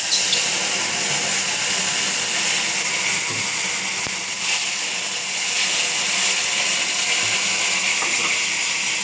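Water poured into a pan of hot, oil-fried semolina, setting off loud, steady sizzling and steam hiss that starts suddenly.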